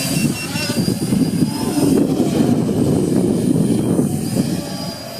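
Wind buffeting the microphone, with the faint high whine of a quadcopter's electric motors flying low over grass.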